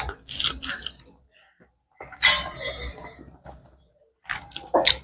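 A person eating close to a clip-on microphone: biting and chewing food with wet mouth smacking, in three spells, one at the start, one about two seconds in and one near the end.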